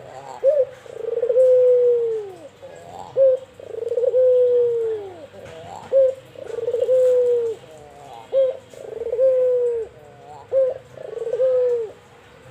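White (albino) Barbary dove cooing five times. Each coo is a short higher note followed by a long drawn-out note that falls in pitch, repeated about every two and a half seconds.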